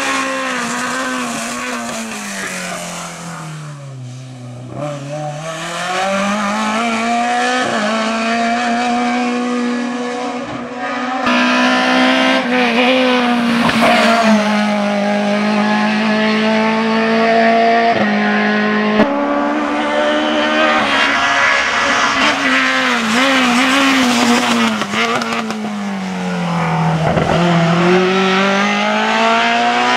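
Lada 2101 hillclimb car's 1.6-litre four-cylinder engine, Fiat 124-based, running hard under race throttle. The revs climb and drop again and again through gear changes, falling low around lifts for corners and then rising as it accelerates away.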